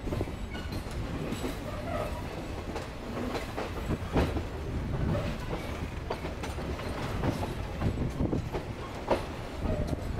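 Passenger train coach rolling along the track, heard from on board: a steady low wheel rumble with irregular clickety-clack knocks as the wheels cross rail joints, the sharpest about four seconds in and again near the end.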